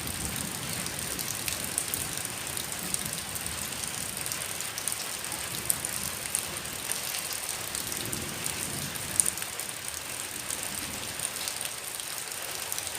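Heavy rain falling steadily, with many scattered sharp drop impacts and a couple of louder ones.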